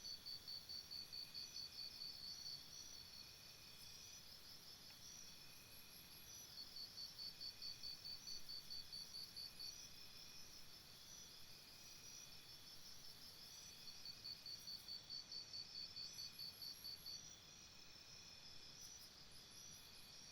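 Faint jungle insect chorus. A high chirp pulses about four or five times a second in bouts of about three seconds, each bout starting roughly every seven seconds, over a steady high chirring from other insects.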